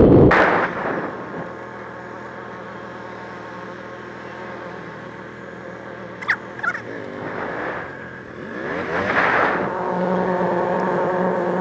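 Motor vehicle engine running steadily. It is loud at the start and quickly falls away, with two short sharp squeaks about six seconds in. It swells again around nine seconds and then holds a steadier, louder note.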